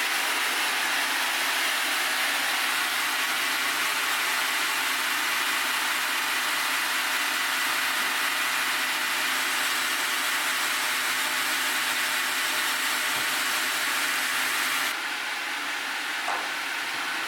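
Sawmill blade running steadily through a log of botan-shirakashi (Japanese white oak), a loud even hiss of cutting. About fifteen seconds in the sound thins and drops a little.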